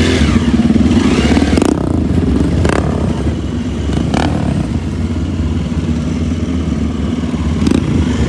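Motorcycle engine running steadily while riding, with a few short knocks or clatters along the way.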